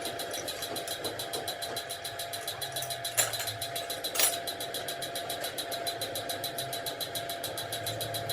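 A machine running steadily with a rapid, even ticking of about six or seven strokes a second, and two sharper clicks about three and four seconds in.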